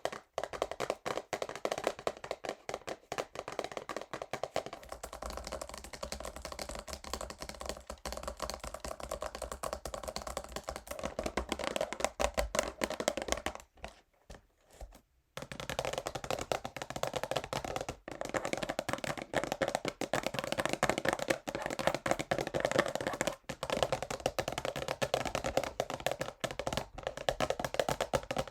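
Fast, rapid fingernail tapping on a cardboard perfume box, a dense run of small clicks with a short pause about halfway through.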